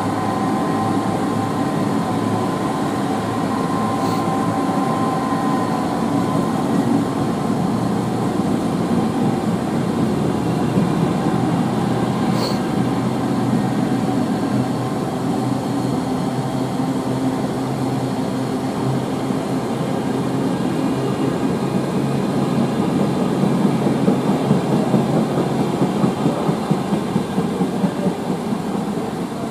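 Train running past on the main line: a steady, loud wash of wheel and rail noise, with a faint steady whine during the first few seconds. Near the end comes a rhythmic wheel clatter, and then the sound begins to drop away.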